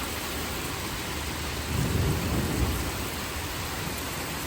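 Heavy rain pouring steadily during a thunderstorm, with a low rumble of thunder swelling about two seconds in and fading within a second.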